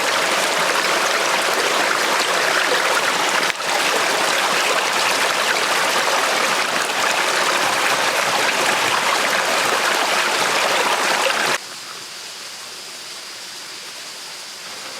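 Forest stream flowing, a steady loud rush of water. It cuts off abruptly near the end, leaving a much quieter background with a faint steady high tone.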